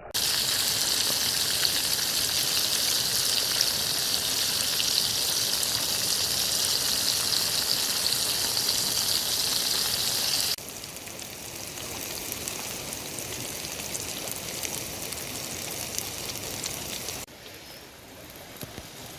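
Food frying in hot oil: a steady, crackling sizzle. It comes in three cut-together stretches, loudest for the first ten seconds or so and quieter after each cut, about ten and seventeen seconds in.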